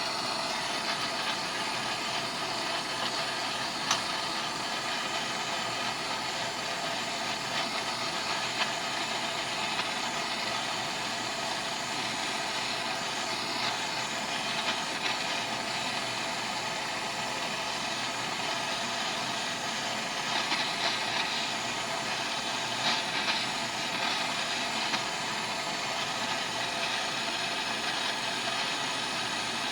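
Electric arc welding: a steady sizzling hiss with occasional small pops, unbroken the whole time.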